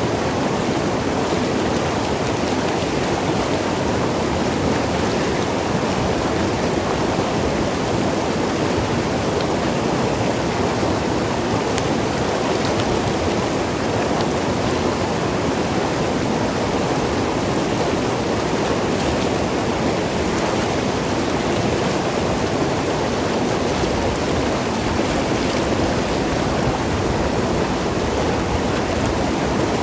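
Mountain river rushing and gurgling over rocks, a steady, unbroken flow of water.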